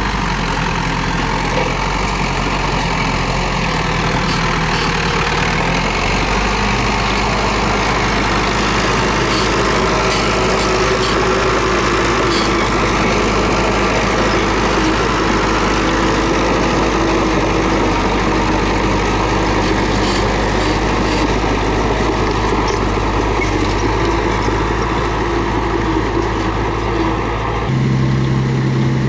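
Diesel engine of a Komatsu D31P bulldozer running steadily under work. Its tone shifts about six seconds in and again shortly before the end.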